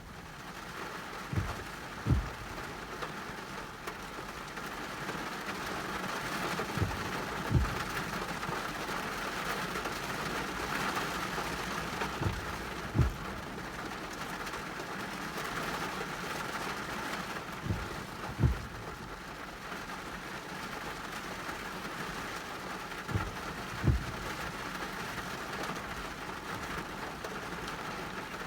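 Heavy rain falling steadily, a hiss that swells about ten seconds in. Pairs of short low thumps, the loudest sounds, recur about every five to six seconds.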